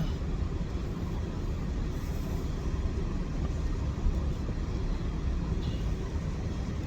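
Car moving slowly, a steady low engine and road rumble heard from inside the cabin.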